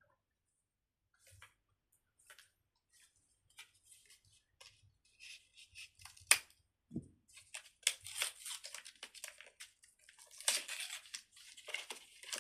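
Fidget toy being handled and squeezed by hand: a run of small crackling clicks and rustles, sparse at first and growing denser and louder in the second half.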